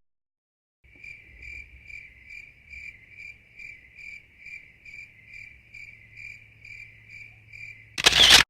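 Crickets chirping at an even pace, about three chirps a second, starting abruptly about a second in and cutting off just as abruptly near the end, where a short, loud noise bursts in.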